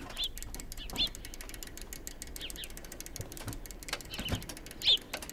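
Birds chirping in short arching calls every second or two, the loudest near the end, over a steady outdoor hiss with rapid light clicks.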